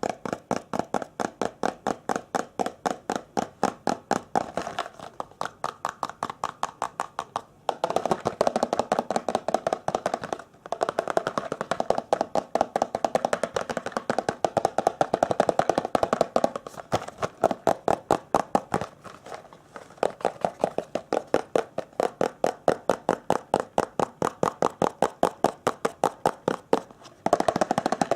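Rapid, even tapping on a hard object, about three to four taps a second, broken by a few short pauses.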